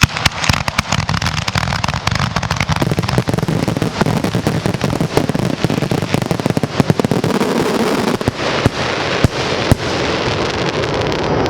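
Fireworks barrage: a dense, rapid string of reports from firework cakes and aerial shells that starts suddenly and runs without a break, with a few louder single bangs near the end.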